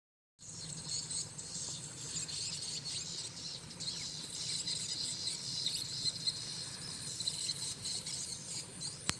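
Dense high-pitched chirping from many small creatures, with many short rapid calls over a faint low hum. It starts abruptly just after the beginning and carries on steadily.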